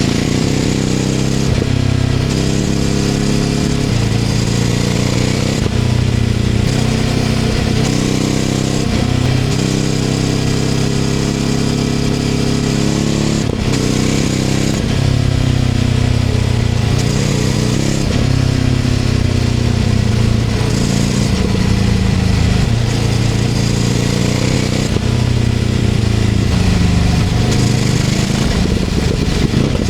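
Ducati Scrambler 800's air-cooled L-twin through an aftermarket LeoVince LV-10 exhaust, riding through a tunnel. The engine note climbs and falls again and again as the bike accelerates and shifts gears. A single sharp crack comes about halfway through.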